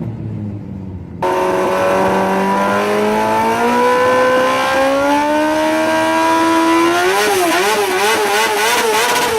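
Motorcycle engine in a go-kart pulling hard, its note rising steadily in pitch after starting abruptly about a second in. Near the end the pitch wavers quickly up and down.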